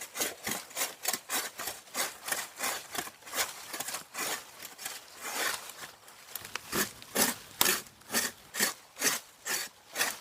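Fiskars hand pruning saw cutting through the trunk of a bay laurel, rhythmic back-and-forth strokes at about three a second, the cut well under way.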